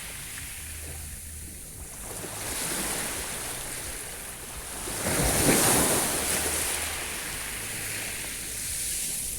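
Sea waves washing onto the shore, the surf swelling and receding, with the biggest wave breaking about five seconds in.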